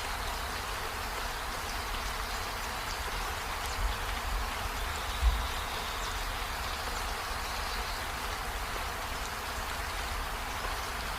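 Steady rain falling on trees, an even hiss with scattered ticks of single drops. Two brief low thumps come about four and five seconds in.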